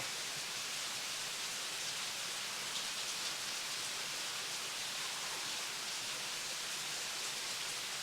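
A steady, even hiss of outdoor noise with no clear clicks or tones.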